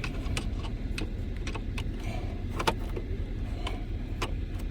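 Irregular light metallic clicks of a screwdriver working at housing screws, over a steady low rumble.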